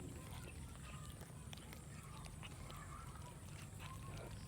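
Cats chewing and eating rice: soft, irregular little clicks and smacks.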